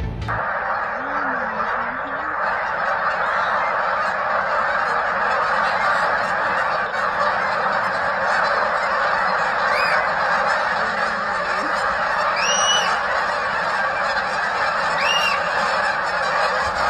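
A dense, steady din of many calls at once, like a large flock of birds calling together. A few higher calls rise and fall above it in the second half, and it cuts off suddenly at the end.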